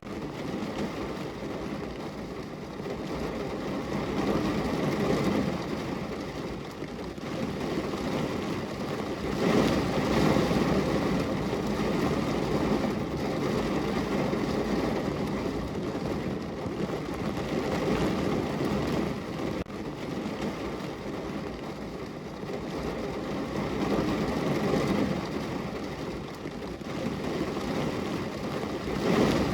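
Heavy rain falling on a car's roof and body, heard from inside the car: a dense, steady patter that swells louder about ten seconds in and again near the end.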